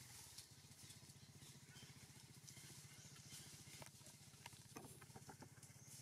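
Faint, steady low hum of a small engine running, with a few soft clicks in the second half.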